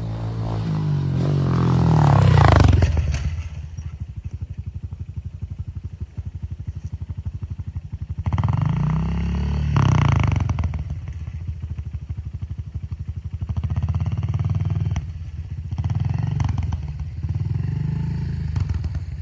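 Honda CRF125F's air-cooled single-cylinder four-stroke engine running under riding, revving up to a loud peak about two seconds in, then dropping back and revving up again several times.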